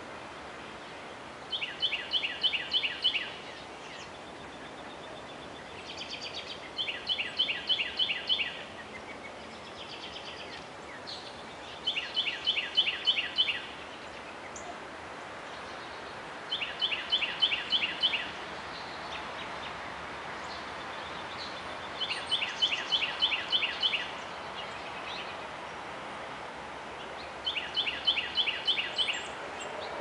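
A songbird singing the same short song six times, about every five seconds: each song a quick run of about ten falling notes lasting under two seconds. A steady outdoor hiss lies underneath.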